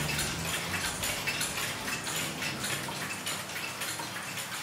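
Rain pattering as many small, irregular drops. Low music notes fade out in the first second or so.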